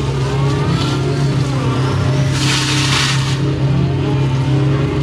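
Excavator's diesel engine running steadily under load, with the hydraulic whine rising and falling as the controls work the arm and bucket. A brief rushing hiss comes a little over two seconds in and lasts about a second.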